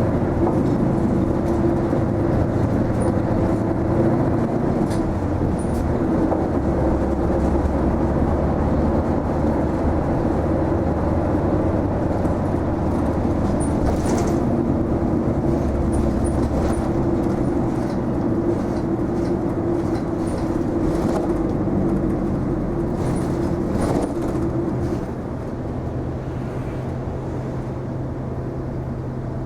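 Isuzu Erga low-floor city bus heard from inside the cabin while driving: steady running and road noise with a few light rattles. Near the end its steady running tone stops and the sound grows quieter.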